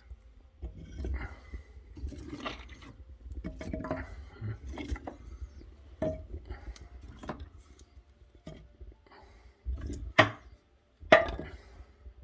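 Firewood being handled at a wood-burning fireplace: irregular knocks and clinks of logs and fireplace fittings, with two sharper clacks near the end.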